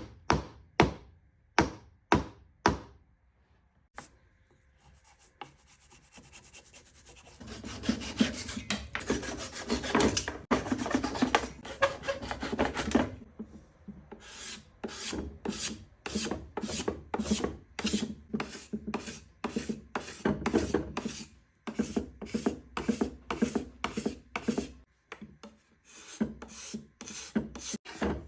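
About five sharp blows on wood in the first few seconds, driving wedges into chair-leg tenons. Then rhythmic back-and-forth strokes of a hand tool working the wood: fast and dense at first, then an even pace of about two strokes a second.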